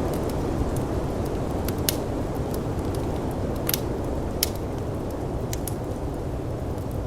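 Wood fire crackling with scattered sharp pops over a steady low rush of snowstorm wind.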